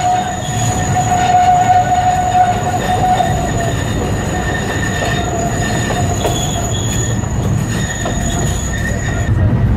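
Carriages of the Alishan Forest Railway steam train rolling along the narrow-gauge track over a steady low rumble, with their wheels squealing on the curve in held high tones that weaken after the first few seconds.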